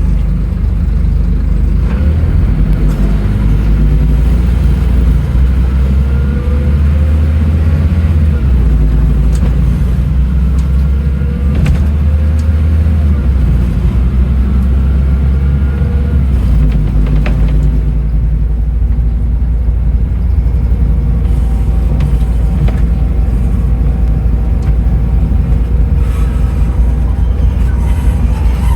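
Scania N310UA articulated bus with a ZF Ecomat 6HP automatic gearbox under way: a loud, steady engine rumble, with a drivetrain whine rising and falling a few times as the bus speeds up and slows.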